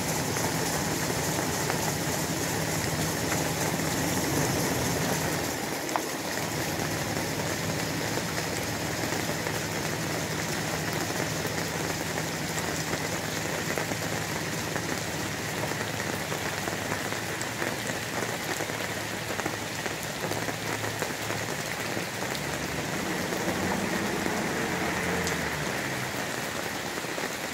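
Steady rain pattering on leaves and gravel, with a pickup truck's engine running low underneath as the truck pulls away.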